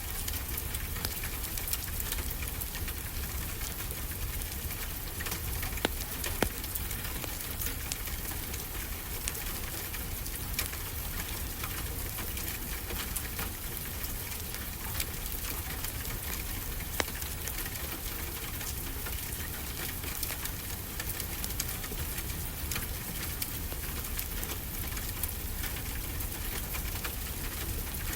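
Fireplace crackling steadily, with a few sharp pops, over a steady low wash of ocean waves.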